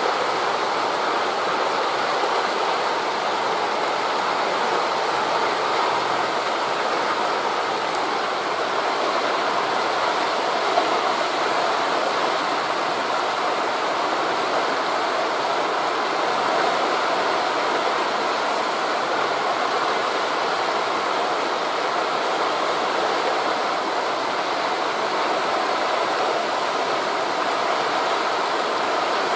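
Steady rushing of wind through forest leaves blended with distant surf, even throughout with no separate wave surges standing out; one faint click about eleven seconds in.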